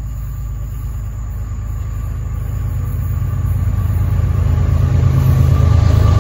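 Approaching Florida East Coast Railway train: the low rumble of its diesel locomotives grows steadily louder.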